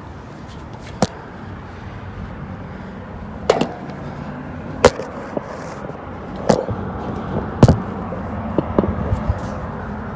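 Hands and shoes knocking and clanking on a train car's metal steps and railings while climbing up it, a handful of sharp hits about a second apart over a steady low background hum.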